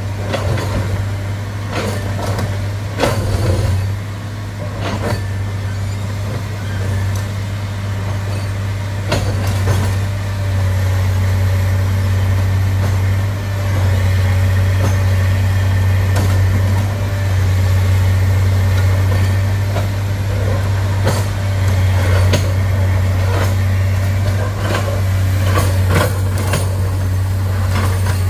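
Heavy diesel engine running steadily at a low, even pitch, with irregular sharp clanks and knocks over it.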